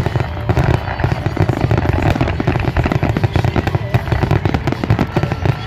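Fireworks finale: aerial shells bursting in rapid, overlapping succession, a continuous barrage of bangs many per second with no break.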